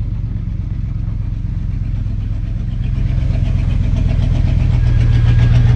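Chevrolet Squarebody pickup's engine running steadily as the truck drives, growing louder from about halfway through.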